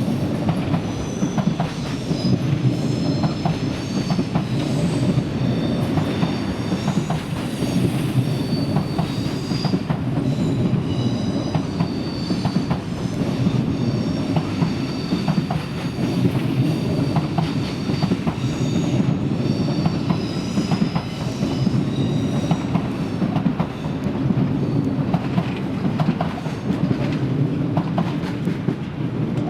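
Passenger train rolling slowly over the station's pointwork: a steady rumble with clicks from the rail joints, and wheels squealing in several high tones that come and go.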